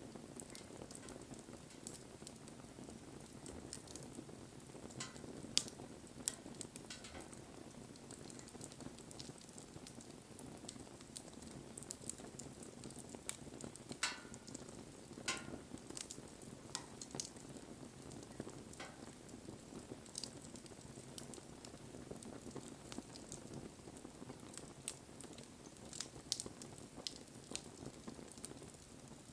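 Wood fire burning: a steady low rush of flames with scattered crackles and sharp pops, the loudest pops about five and a half and fourteen seconds in.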